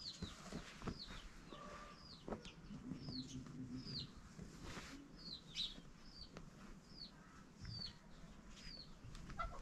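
Birds chirping: a string of short, high chirps that fall in pitch, about one or two a second, with a few soft taps and rustles of fabric pieces being laid on a carpet.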